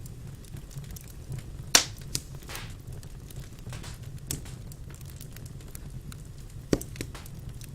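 Wood fire burning in a fireplace: a steady low rumble of flames with scattered sharp crackles and pops, the loudest pop a little under two seconds in and another near the end.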